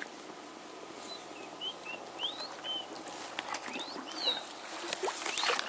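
Wild birds chirping in short, high, quick notes over a faint outdoor background, with a few light clicks or knocks near the end.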